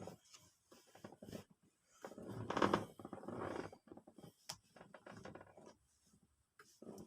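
Irregular scraping, knocking and rustling of a bread maker's parts being handled by hand during a repair. The loudest scrape comes about two to three seconds in.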